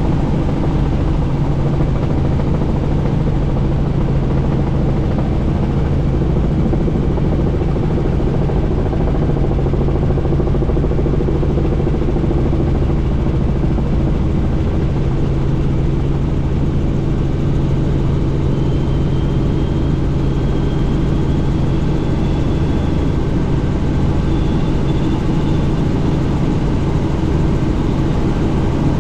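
Helicopter in flight: a loud, steady drone of rotor and engine over rushing noise, with a faint high whistle coming in during the second half.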